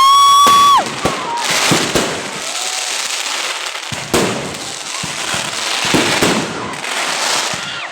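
Fireworks going off: sharp bursts and crackling every second or so. A loud, high, held tone opens the first second and then cuts off.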